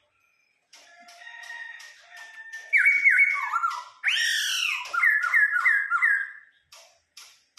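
Laughingthrush singing loud, clear whistled phrases: held whistles, a sweeping rise-and-fall about four seconds in, then a quick run of four repeated falling notes.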